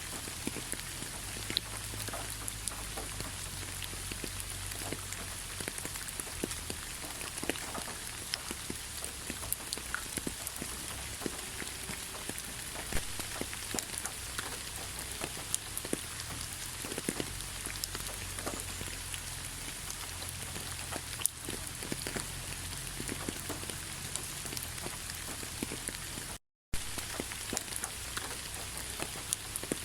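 Steady rain falling, with many individual drops ticking on a surface over the continuous hiss. The sound cuts out completely for a fraction of a second near the end.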